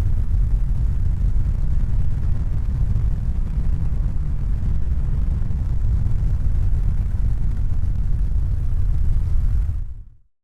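Steady deep rumbling noise, heaviest in the bass, fading out near the end.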